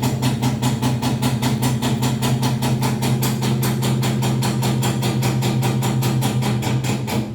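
Panasonic NA-V170MDH washing machine drum rotating with a loud, fast, even knocking, about six or seven beats a second, over a steady hum; it dies away near the end. This is the abnormal noise the owner hears whenever the drum turns, though the machine is level on a flat floor and a technician who opened it found no internal fault.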